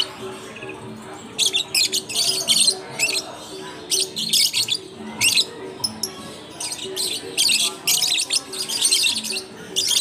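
Many caged lovebirds chattering: shrill, harsh bursts of calls in quick succession with short gaps between them.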